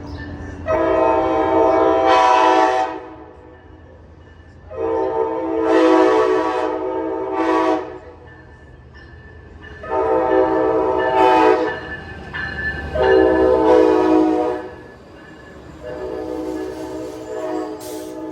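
Locomotive multi-chime air horn sounding the grade-crossing signal: two long blasts, a short one, then a long one, with a further quieter blast near the end. Underneath it runs the low rumble of the passing train.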